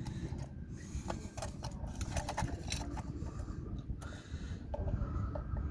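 Irregular clicks and taps of metal parts and tools being handled while working on a car's rear axle, over a low rumbling background noise.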